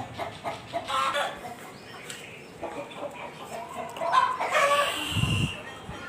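Chickens clucking in a series of short calls, with louder calls about a second in and again around four to five seconds in. A brief low bump comes about five seconds in.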